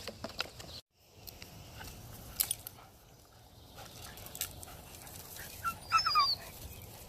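A puppy gives a short, high whimper near the end, amid scattered light clicks and taps. The sound drops out completely for a moment about a second in.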